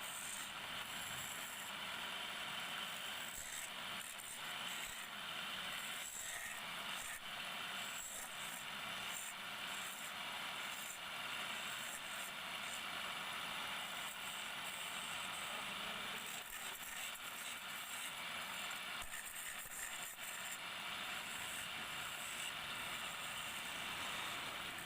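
Wood lathe turning, with a hand tool cutting the spinning wood: a steady scraping hiss broken by frequent short crackles.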